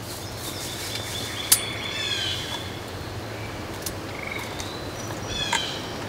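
Wild birds calling outdoors: short runs of high chirping notes, twice, over a steady background, with one sharp click about a second and a half in.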